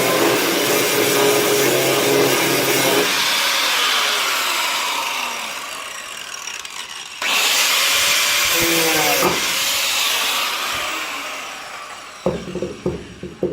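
Angle grinder with a cutting disc slicing through car body steel, run in two bursts; each time the trigger is released the disc spins down with a falling whine. A few sharp metal clanks near the end.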